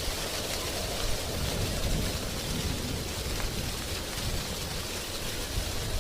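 Wind blowing through tree leaves: a steady rustling hiss with an uneven low rumble underneath.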